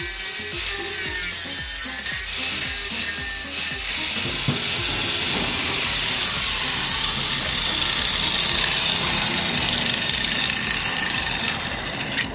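Continuous harsh grinding and rasping of a tool working on steel during swingarm fabrication, ending with a sharp click shortly before it stops.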